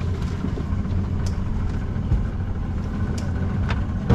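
A boat's outboard motor running steadily with a low, even drone, with a few short sharp clicks over it.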